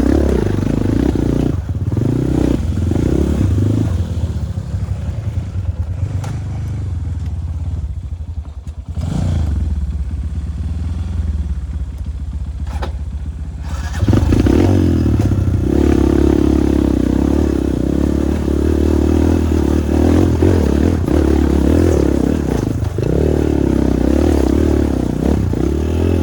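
Dirt bike engine running. It eases off to a lower, quieter note for several seconds in the middle, then picks up sharply about 14 seconds in and holds steady under throttle, with occasional knocks.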